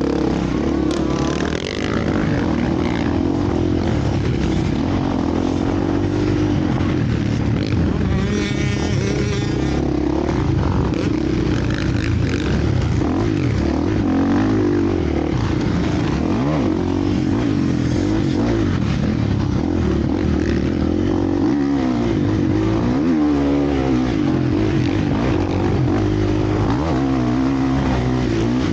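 Several motocross bikes racing, engines revving up and down through the gears as they ride the track.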